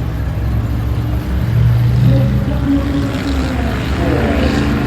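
Drag racing car engines running loudly at idle, with the engine note swelling about two seconds in and rising and falling in the second half.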